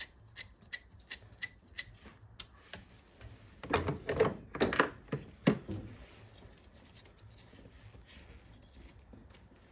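Hand tools and metal parts being worked on a car engine: sharp, evenly spaced clicks about three a second, then a few louder clunks and rattles about four to five and a half seconds in as parts are handled.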